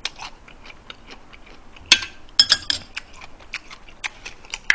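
A person chewing a slice of danmuji (yellow pickled radish): a run of crisp, crunching mouth clicks, with a few louder ones about two seconds in.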